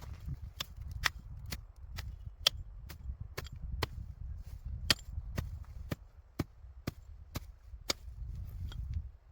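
Axe chopping wood in steady strokes, about two sharp hits a second, with a low wind rumble underneath.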